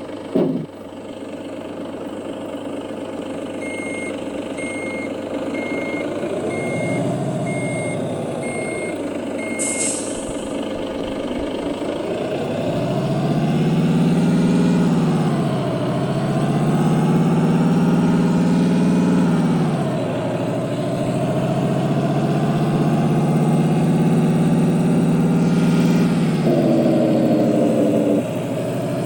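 Heavy diesel truck engine running and manoeuvring, its pitch rising and falling several times as it revs and changes gear. Early on, about eight short reversing beeps sound roughly once a second, ending in a brief air hiss; another short hiss comes near the end.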